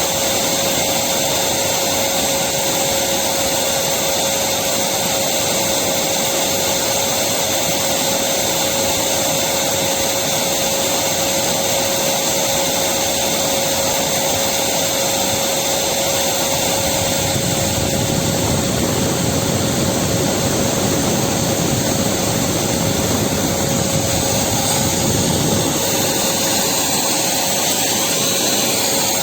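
Electric vacuum cleaner running steadily: a constant motor whine over a broad rush of air, with a slight change in the low rumble partway through.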